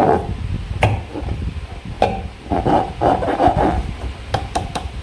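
Slime being squeezed and worked by hand, giving a wet squelching with sharp popping clicks: one early, one about two seconds in, and a quick run of several near the end.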